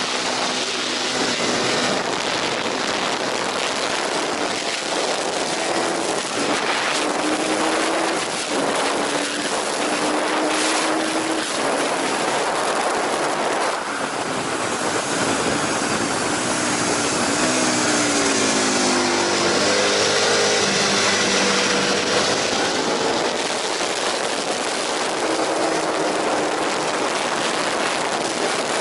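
Aprilia RSV 1000 Factory's V-twin engine at speed on a racetrack, its pitch climbing and dropping repeatedly as it accelerates, shifts and brakes. A heavy wind rush over the microphone runs under it throughout.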